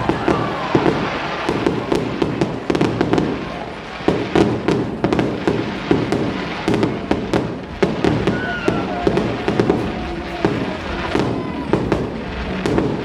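Fireworks going off in a rapid, continuous string of sharp bangs and crackles.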